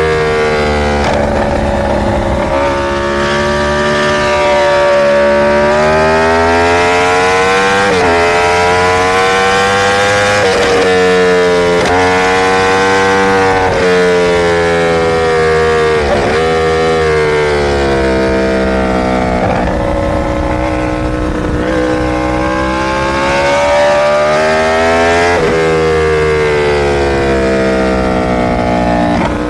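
Inline-four sportbike engine under load, its pitch climbing and then dropping sharply several times as it shifts through the gears.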